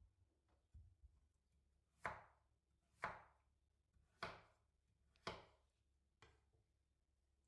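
Knife chopping food on a cutting board in slow single strokes, about one a second, the four firmest in the middle.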